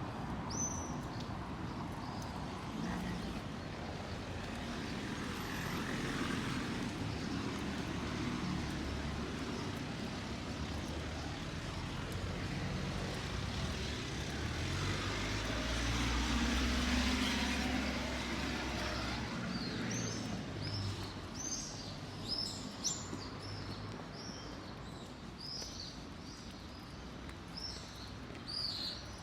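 A passing vehicle's rumble that swells to its loudest a little past the middle and then fades away. From about two-thirds of the way in, a small bird chirps over and over in short, high notes.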